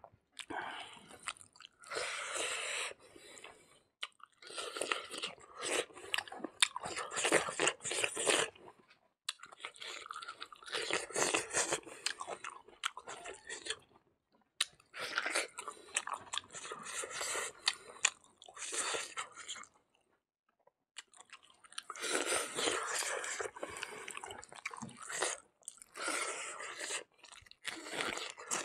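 A person chewing and crunching food with his mouth, in runs of a few seconds broken by short pauses.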